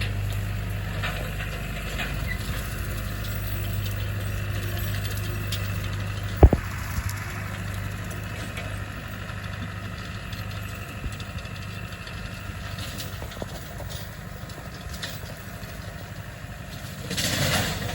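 John Deere 5410 tractor's diesel engine running steadily, easing off somewhat after the middle, with one sharp knock about six seconds in.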